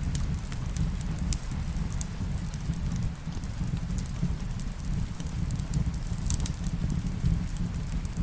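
Wood fire crackling in a fireplace, with irregular sharp pops and snaps over a steady low rumble, mixed with the patter of rain.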